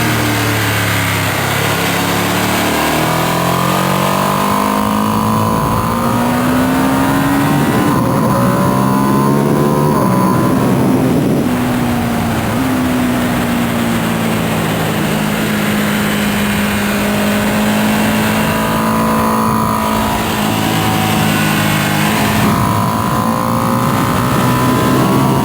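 2025 Ducati Panigale V2S's V-twin engine on its stock exhaust, ridden hard on track. The revs fall at the start, climb again, hold fairly steady through the middle and rise again near the end.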